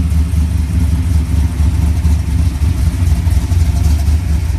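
A car engine running close by: a steady, loud, low rumble.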